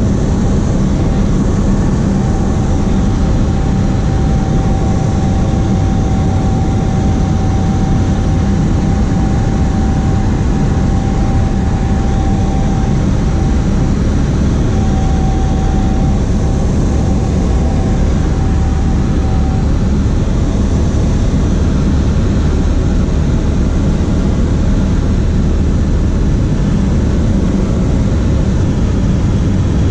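Cessna 152's four-cylinder Lycoming engine and propeller droning steadily in flight, heard from inside the cabin. A thin, steady high tone sounds over the drone for most of the first twenty seconds, then stops.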